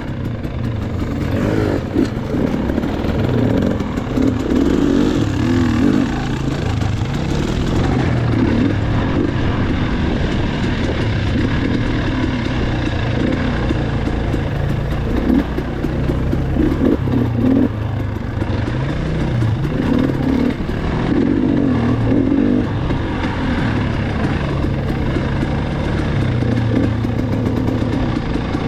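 Dirt bike engine running while being ridden, its pitch rising and falling with the throttle throughout.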